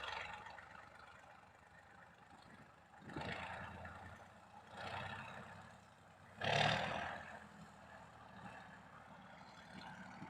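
KhTZ T-150 tractor's YaMZ-236 V6 diesel running, swelling louder three times; the strongest swell comes about six and a half seconds in.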